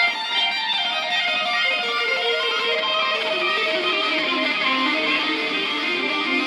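Live rock band playing an instrumental passage, with electric guitar carrying quick, shifting melodic lines; the low end is thin.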